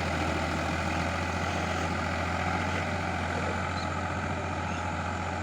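Escort tractor's diesel engine running steadily.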